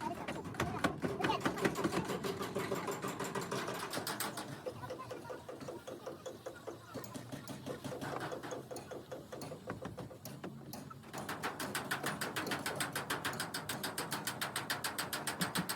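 A machine or power tool running with a rapid, regular clatter of many strokes a second. It is louder at the start and again for the last few seconds, softer in the middle.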